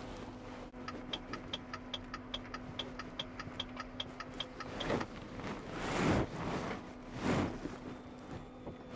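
Turn-signal indicator ticking rapidly in a truck cab, about four ticks a second, over a steady low electric hum. The ticking stops about halfway through and is followed by three whooshing swells of noise.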